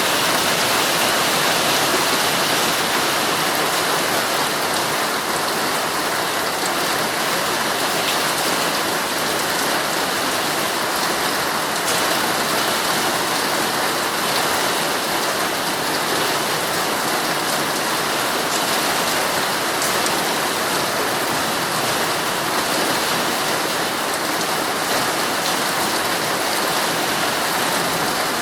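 Heavy rain falling steadily on a tent, a dense, even hiss with faint individual drop taps.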